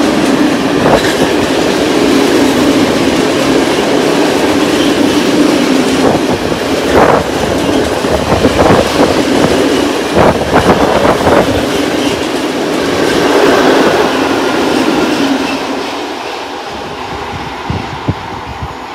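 Freight train of cement tank wagons rolling past at speed: a steady rumble of wheels on rail with sharp clacks as the wheels cross rail joints. It fades near the end as the last wagons move away.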